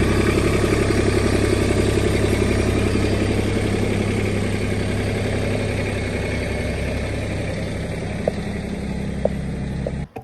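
Mahindra tractor's diesel engine running steadily, growing slowly quieter, with a few light clicks near the end before it cuts off abruptly.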